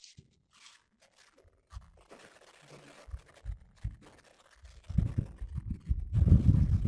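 Scattered scratching and crunching, like dry twigs and leaves being handled, then from about five seconds in irregular low rumbling thumps that grow louder.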